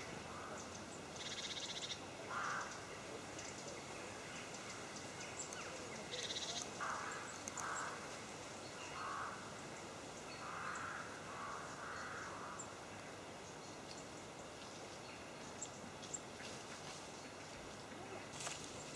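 Eurasian jay giving a series of short, harsh rasping calls, about a dozen spread over the first two thirds, then only faint woodland background.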